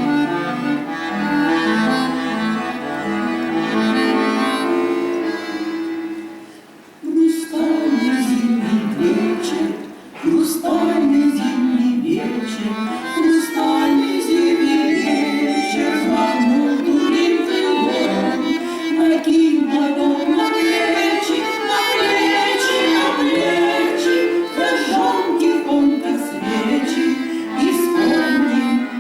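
Instrumental music led by accordion, a break between sung verses. The sound drops briefly about seven seconds in, then the playing resumes with a livelier melody.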